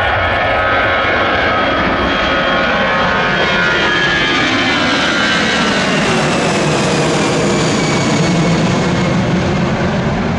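Airbus A319 jet engines at high power as the airliner passes by. The engine whine slides down in pitch partway through as it goes past.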